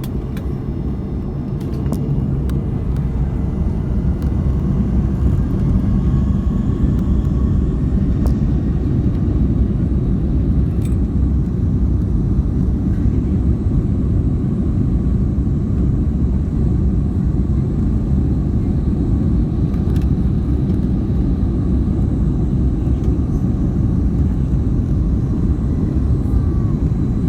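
Airbus A310-304's General Electric CF6-80C2 turbofan engines spooling up to takeoff power, heard from inside the cabin: a heavy low rumble that grows louder over the first few seconds, with a faint rising whine, then holds steady as the airliner accelerates down the runway.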